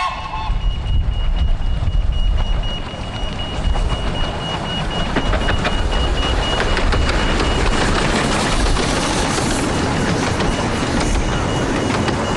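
Miniature railway train running along the track: a steady rumble with a faint continuous high whine, and rapid clicks from the wheels and track coming in during the second half.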